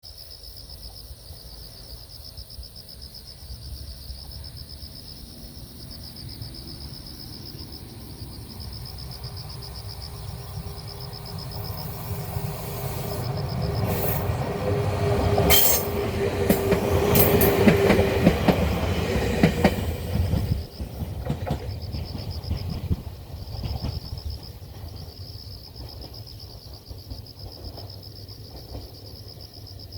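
Two-car Ueda Electric Railway 1000 series electric train approaching, passing close by and receding. Its wheels click over the rail joints, loudest about halfway through. Crickets trill in a steady pulsing chorus behind it.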